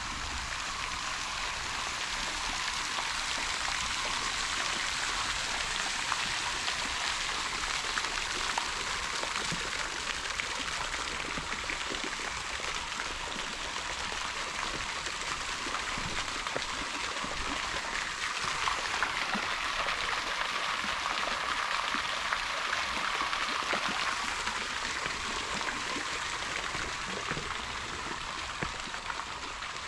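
Flowing stream water, a steady rushing with no let-up.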